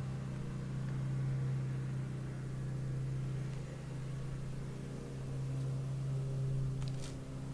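Steady low drone of a car heard from inside the cabin: engine and road noise, swelling and easing slightly as it drives.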